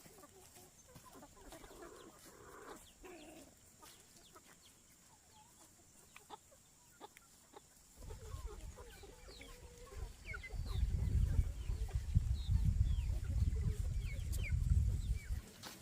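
Chickens clucking, with short high chirps. A low rumbling noise comes in about halfway through and grows loudest near the end.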